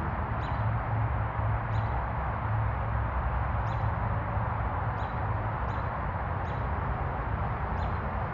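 Steady background noise with a low hum, and short, high, falling chirps that come roughly once a second.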